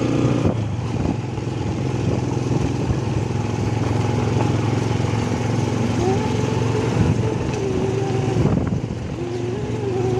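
Motorcycle engine running steadily while riding, with rushing road and wind noise; the engine's pitch wavers a little in the second half.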